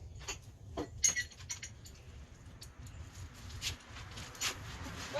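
Scattered light metallic clinks and clatters of hand tools being picked up and handled, a sharper clink about a second in.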